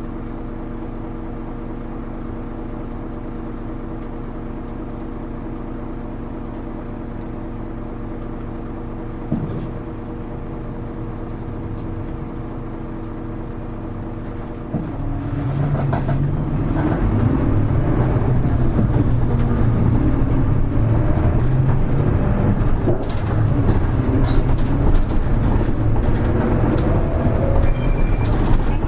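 Hino KL-HR1JNEE city bus's diesel engine idling steadily while the bus stands still. About fifteen seconds in, the bus pulls away and the engine and running noise grow louder and rougher as it accelerates.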